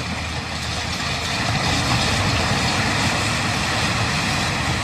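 A heavy engine running steadily with a dense, noisy rumble, typical of demolition machinery at work.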